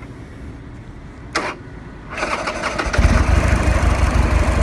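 A 2009 Buell XB12SS Lightning's 1202cc fuel-injected V-twin being started: a short click, then the starter cranking about two seconds in, and the engine catches about three seconds in and settles into a steady idle.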